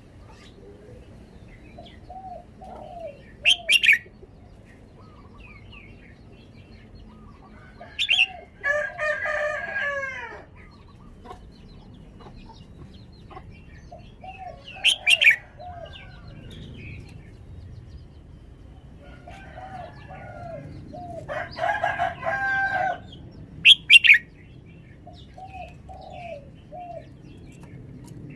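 Red-whiskered bulbul singing short, sharp, loud phrases, about four times, a few seconds apart, with softer lower notes between them.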